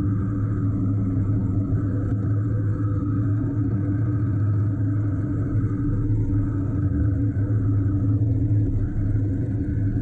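Honda NC750X motorcycle's parallel-twin engine running at a steady cruise, with wind and road noise.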